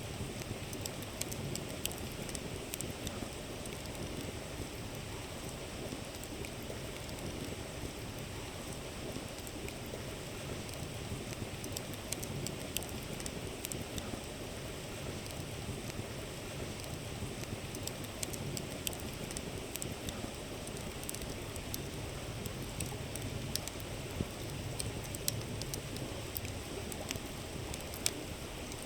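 Campfire wood crackling with scattered sharp pops, over the steady rushing murmur of a flowing river.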